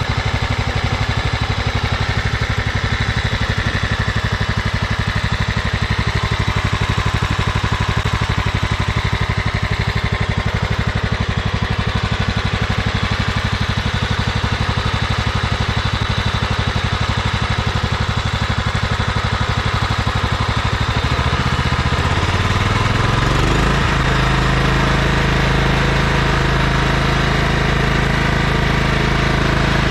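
John Deere LX255 lawn tractor's single-cylinder Kohler CV15 engine running steadily at a low speed. About two-thirds of the way in it is throttled up and settles at a higher steady speed. Its oil has been topped off to full and the valve noise has largely gone.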